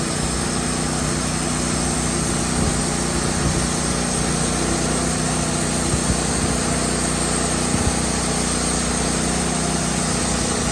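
Woodmizer LT15 portable bandsaw mill running steadily under load, its engine working as the band blade cuts through a crooked pine log, with the cut running heavy at the turned-up end.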